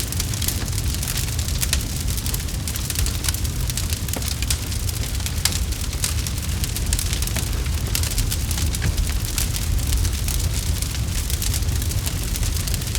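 Campfire burning with a steady low rumble and constant crackling, many small sharp pops scattered throughout.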